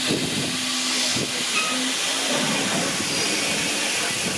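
Steam locomotive hissing steadily as it vents steam.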